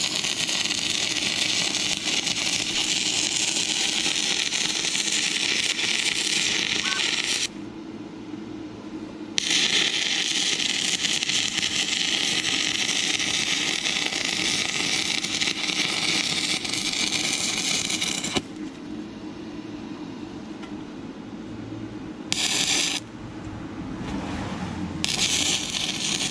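Stick-welding arc burning on rusty, painted metal: a steady crackling hiss. It breaks off about seven seconds in, restrikes after a couple of seconds and runs about nine seconds more, then catches only briefly twice near the end as the arc is lost.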